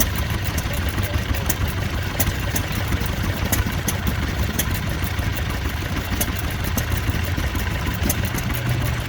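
Vintage stationary engine running steadily, a low even beat with scattered sharp clicks over it.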